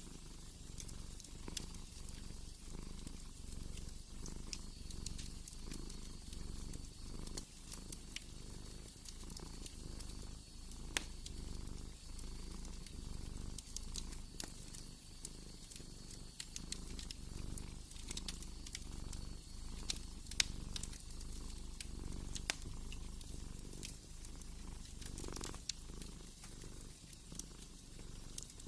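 Domestic cat purring steadily, a low rumble that swells and fades with each breath, with scattered sharp pops and crackles of a wood fire over it.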